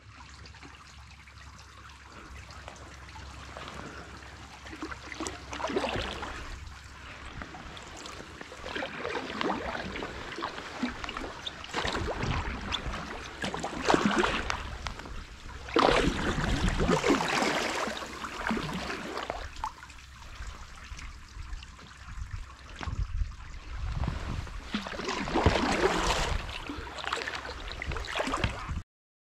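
Water trickling and splashing, swelling louder and easing off at irregular intervals.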